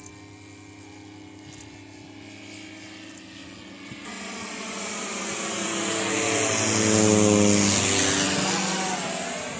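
Radio-controlled C-160 model plane flying past with propellers running: its hum swells to a peak about seven seconds in, and its pitch drops as it passes.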